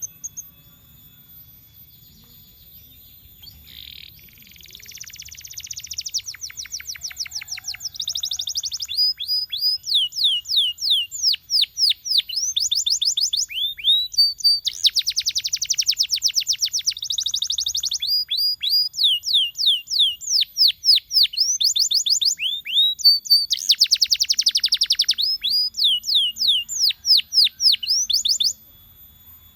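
Domestic canary singing a long song: fast trills and rolls alternating with series of quick sweeping whistled notes, beginning about four seconds in and stopping abruptly near the end.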